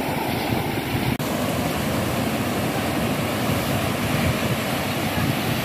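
Ocean surf washing onto the beach: a steady, loud rushing of breaking waves.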